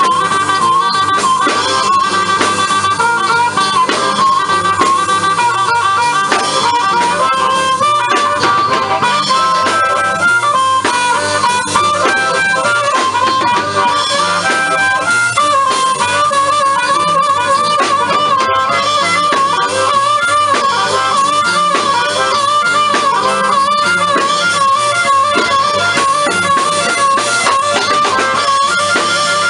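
Live blues played on harmonica and guitar: an instrumental stretch with a harmonica soloing over a steady guitar rhythm.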